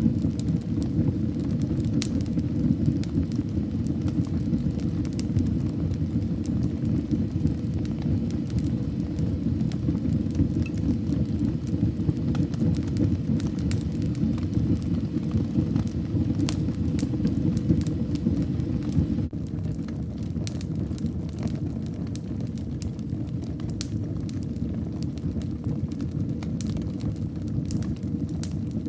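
Wood fire burning in a fireplace: a steady low rumble of flames with scattered crackles and pops. About two-thirds of the way through, the rumble eases slightly and the crackles come more often.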